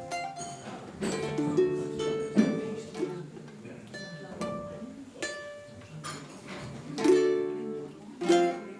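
Small acoustic guitar played in short snatches: several strummed chords and single plucked notes, each ringing and fading, with pauses between them.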